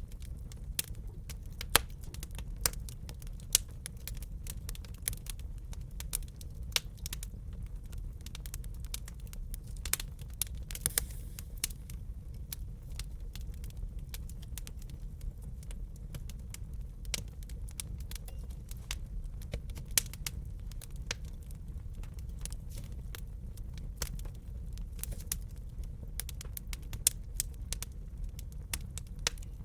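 Wood fire crackling in a fireplace: irregular sharp pops and snaps, a few much louder than the rest, over a steady low rumble of burning.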